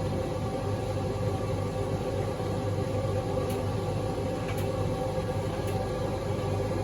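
Servis M2110 tumble dryer running: a steady motor hum with the drum turning, and three faint light ticks about a second apart in the second half.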